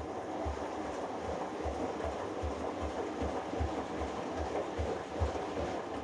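Hoover Dynamic Next washing machine drum turning during the first rinse of a delicates cycle, the load and water sloshing with low thuds about two and a half times a second. It stops abruptly at the end.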